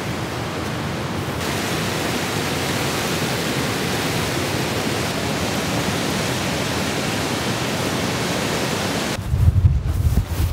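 Heavy rain falling in a storm, a steady dense hiss that grows fuller about a second and a half in. Near the end it gives way suddenly to gusting wind buffeting the microphone with an uneven low rumble.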